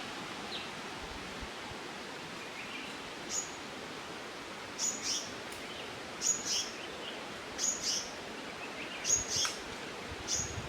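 A bird calling with short, high chirps, often in quick pairs, repeated about every second and a half over a steady outdoor background hiss.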